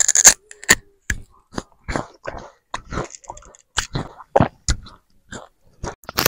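Close-up crunching and chewing of raw sugarcane: short, sharp crunches at irregular intervals, about two a second, with dead silence between them.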